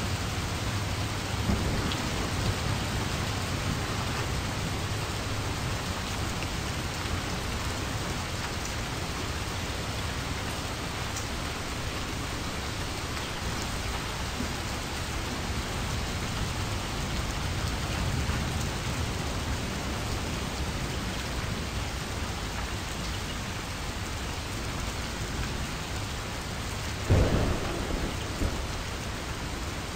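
A steady, even noise like heavy rain, with a low rumble underneath; one brief thud near the end.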